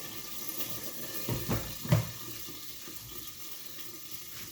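Kitchen tap running steadily into a sink, with two short knocks of dishes or utensils about one and a half and two seconds in.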